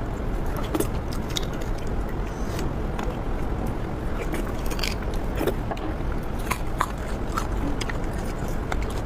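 Close-up mouth sounds of someone biting and chewing beef bone marrow, with many short wet clicks scattered over a steady low background noise.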